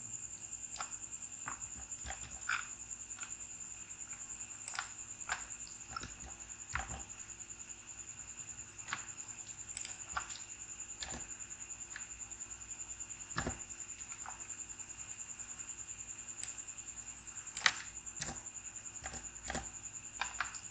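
Faint room tone with a steady high-pitched whine and scattered soft clicks at irregular intervals, the sharpest a little before the end.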